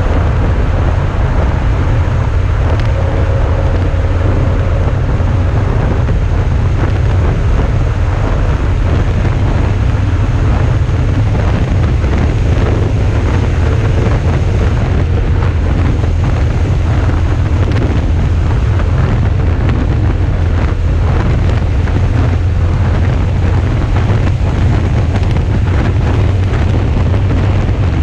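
Suzuki V-Strom 650's 645 cc V-twin engine running steadily while the motorcycle is ridden. Heavy wind noise buffets the camera's microphone, with a strong low rumble throughout.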